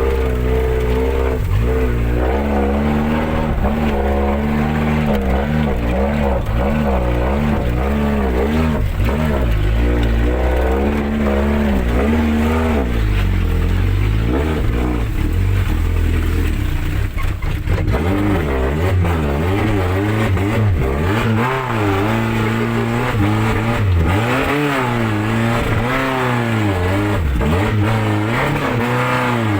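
A vehicle engine revving hard and unevenly under load, its pitch climbing and falling again and again, easing off for a few seconds around the middle before pulling hard again.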